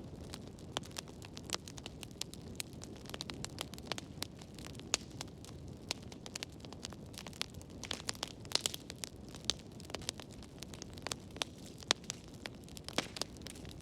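Wood fire burning in a fireplace: a steady low rumble of flames with frequent irregular sharp crackles and pops, busiest about eight to nine seconds in.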